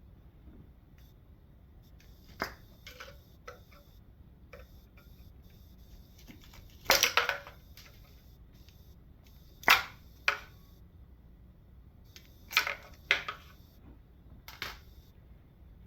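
Sharp metallic clanks and clicks of hand tools and engine parts being picked up and set down during an engine teardown. About seven separate knocks, the loudest about seven and ten seconds in.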